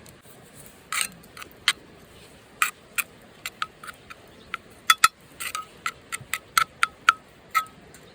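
Light metallic clinks at irregular intervals, each with a short ring, like small utensils tapping against cookware.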